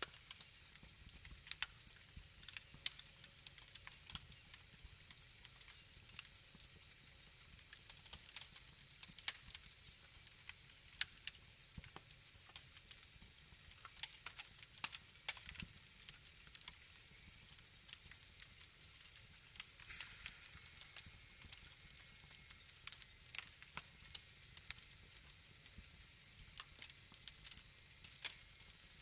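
Wood fire crackling: irregular sharp crackles and pops over a soft low rush, with a brief hiss about twenty seconds in.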